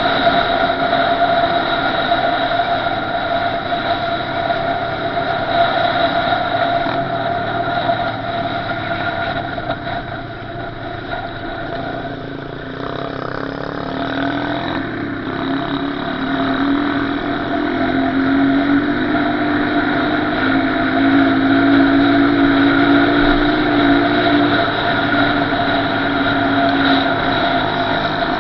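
Small off-road motorbike-type engine running under way, dropping off about a third of the way in and then revving up again, its pitch climbing as it picks up speed.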